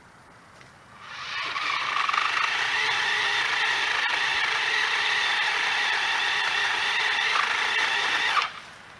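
Ryobi 40-volt battery pole saw's electric motor and 10-inch chain running: it spins up about a second in, holds a steady whine, and cuts off abruptly near the end.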